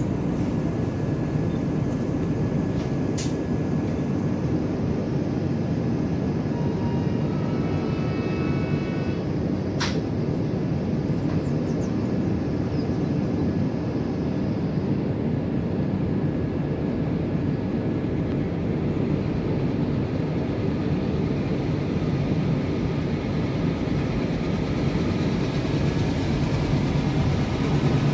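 Steady low rumble of a double-decker express passenger train rolling slowly along the track, heard from an open coach doorway. Two sharp clicks come a few seconds in and again about ten seconds in, and the sound grows slightly louder near the end.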